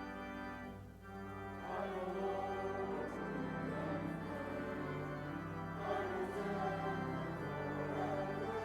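Church organ playing sustained chords, with a short dip about a second in before the next phrase begins.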